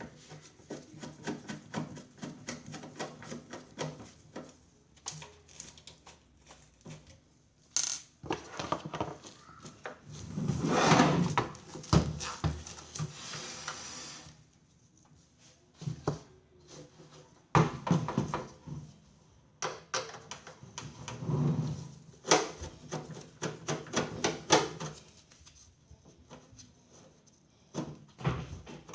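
Handling noises from work on a microwave oven: irregular clicks, knocks and rattles of parts and tools, with a longer stretch of rubbing noise about ten seconds in.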